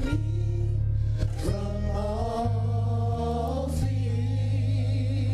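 Live gospel worship music: a worship team singing long held notes over a steady bass line.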